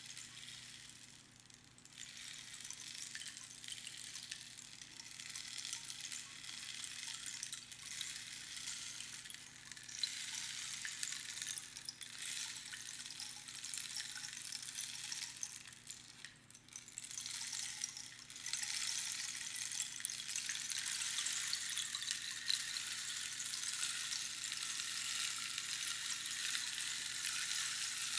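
Rainstick being played: a steady hiss of pebbles trickling down through the pins inside the tube, like falling rain. It dips briefly twice, about a second and a half in and around sixteen seconds, and is louder from about eighteen seconds on.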